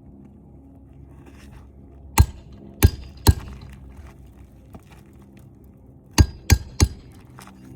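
Hammer driving roofing nails into a shingle: two runs of three sharp strikes, the second run about four seconds after the first.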